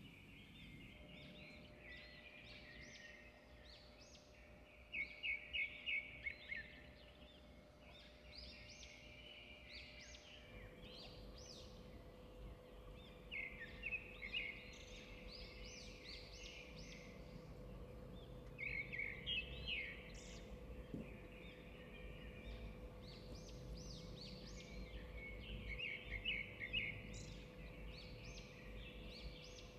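Birds chirping and trilling in short bursts every few seconds, over a faint steady hum.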